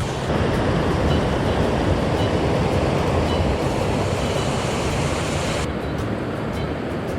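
Rushing mountain-stream water, a steady loud roar of white water, which changes character abruptly about six seconds in.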